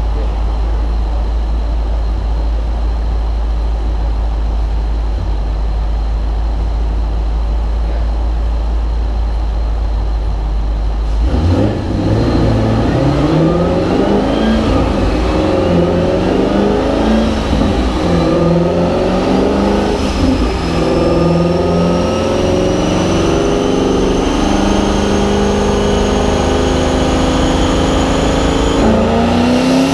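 Twin-turbocharged Ford Coyote 5.0 V8 on a chassis dyno: a steady low drone, then about 11 seconds in it comes under load and the engine note climbs slowly, wavering, with a thin turbo whine rising in pitch alongside it until just before the end. This is a boosted dyno pull on pump gas at 12–14 psi.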